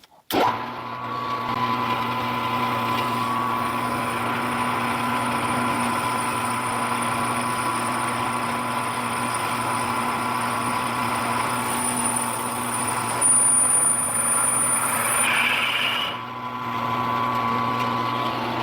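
Milling machine spindle starting up and running at about 825 RPM while a half-inch drill bores through a mini lathe headstock, a steady machine hum with a higher cutting whine over it. About two-thirds of the way in it grows louder with a brief high-pitched squeal, then eases as the drill cuts through, and the machine runs on until it stops near the end.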